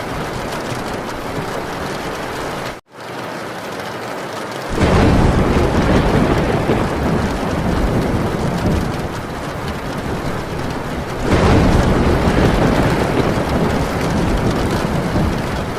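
Heavy rain falling on a metal tin roof as a steady hiss. The sound cuts out for a split second near three seconds. Thunder rumbles in about five seconds in and swells again around eleven seconds.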